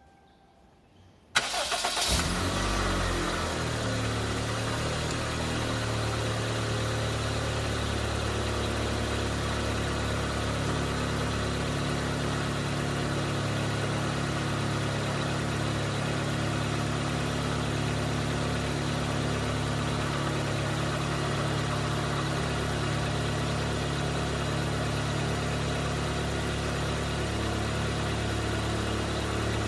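1994 Toyota Corolla's four-cylinder engine started from cold: a brief crank about a second and a half in, the engine catches, runs a little higher for a moment, then settles into a steady idle.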